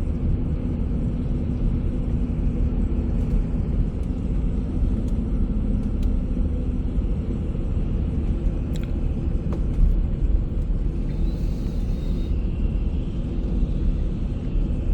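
Bus on the move: a steady low engine and road rumble.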